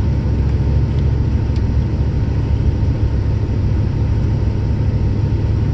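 Steady low rumble of a four-wheel-drive pickup truck driving on a snowy road, heard from inside the cab: engine and tyre noise.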